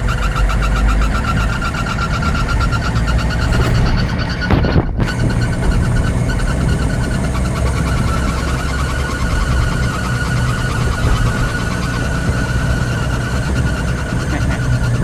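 An ambulance on the move: engine and road noise with a steady high-pitched whine over it, the strange noise that shows up while the ambulance is rolling.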